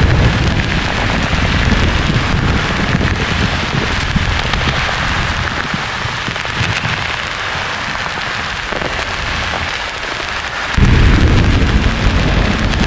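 Steady white-noise hiss under rolling thunder: a low rumble fades away through the middle, then a new peal of thunder breaks in suddenly near the end.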